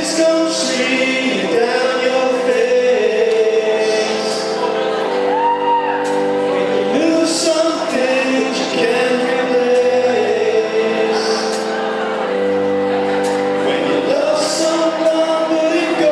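Live band playing a song with singing: sustained chords that change every couple of seconds, sung lines over them and a steady sharp percussion tick.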